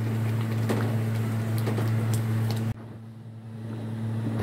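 Spice masala sizzling in oil in a wok, with short scrapes from stirring, over a steady low hum. The masala is at the bhuna stage, fried until the oil separates. About two-thirds of the way in the sizzle cuts off suddenly, leaving the hum, and slowly comes back up.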